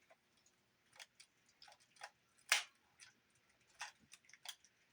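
Scattered light clicks and taps from handling a Sony TC-50 cassette recorder and its packaging, about eight in all, the sharpest a little past halfway.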